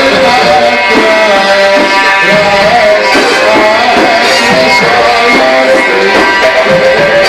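Loud Egyptian sha'abi wedding band music, a wavering, ornamented lead melody over dense accompaniment.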